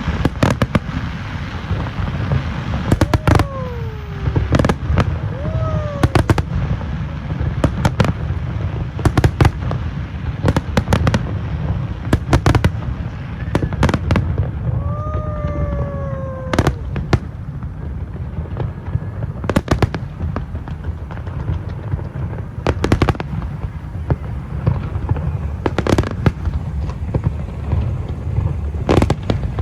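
Fireworks display: a steady low rumble of aerial bursts with frequent sharp cracks, and a few whistles that fall in pitch, two close together a few seconds in and one more around the middle.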